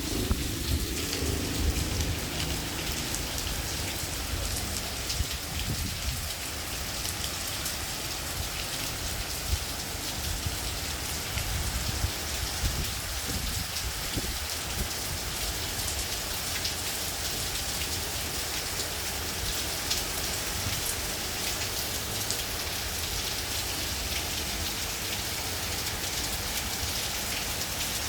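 Light rain falling steadily in a fine, even hiss, with strong wind gusting as an uneven low rumble on the microphone.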